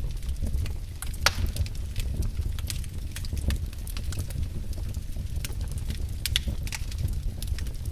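Wood fire burning in a fireplace: a steady low rumble of the flames with irregular sharp crackles and pops, one louder pop about a second in.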